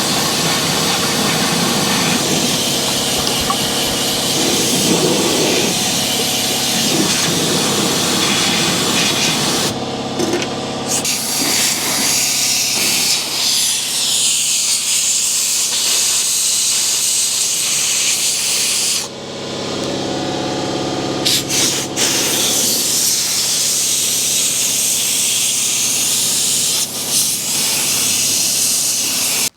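Air-powered undercoating gun spraying oil through a wand into a truck door's cavities: a loud, steady hiss that drops out briefly about ten seconds in and again around twenty seconds.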